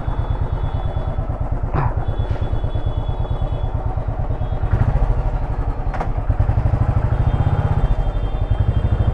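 Motorcycle engine running at idle with a steady rapid thumping beat, picking up slightly about five seconds in and again a little later. Two short knocks come over it.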